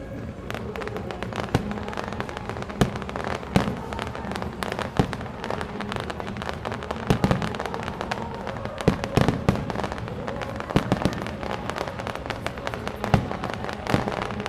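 Fireworks display: a dense, irregular run of bursting shells and crackling bangs, with louder booms scattered throughout.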